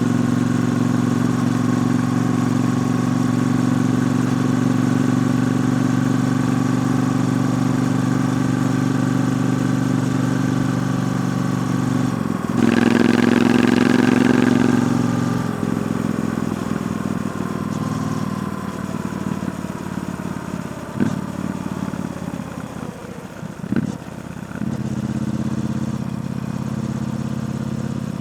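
Triumph Bonneville T120's 1200 cc parallel-twin engine through its stock exhaust, running at a steady note. About halfway through it gets suddenly louder for a couple of seconds as the throttle opens, then its pitch falls slowly away. Two short sharp clicks come near the end before it settles back to a steady note.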